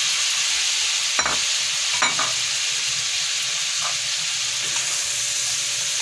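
Shell-on shrimp and a crab sizzling in melted butter in a pan, stirred with a wooden spatula that knocks against the pan a few times.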